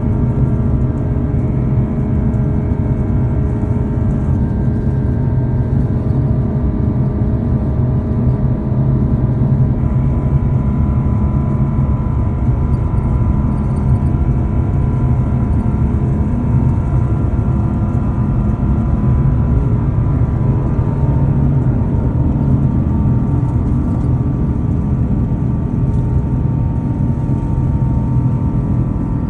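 Airbus A350's Rolls-Royce Trent XWB turbofan engines at takeoff power, heard from inside the passenger cabin as a loud, steady rumble with a constant droning hum of several tones over it.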